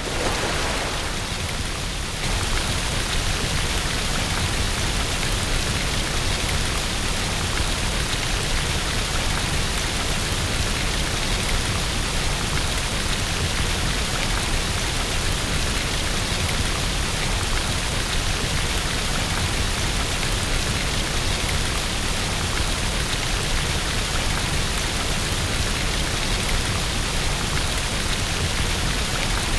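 Steady rain falling on a window, a continuous even hiss that gets a little louder about two seconds in.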